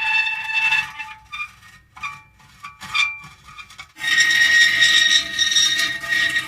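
Metal creaking: a long, pitched, squealing creak that breaks off just under a second in, a few short irregular creaks, then a new, higher-pitched sustained creak that starts abruptly about four seconds in.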